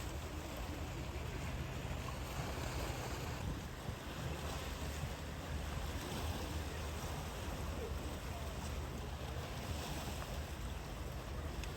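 Sea surf washing in with wind buffeting the microphone: a steady rushing noise with a heavy low rumble.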